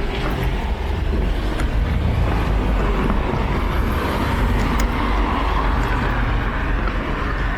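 Road traffic on a wet city street: a steady low engine rumble with a rushing hiss that swells about three seconds in, and a few faint clicks early on.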